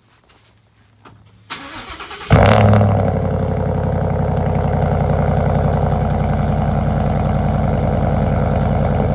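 Ford F-150's 5.0 Coyote V8 cold-started through a muffler-delete exhaust with the resonator kept. The starter cranks briefly about a second and a half in, the engine catches with a loud flare, then settles into a steady idle.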